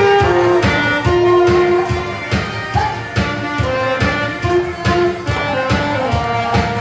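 Saxophone playing a melody over a recorded backing track with a steady beat of about two strokes a second.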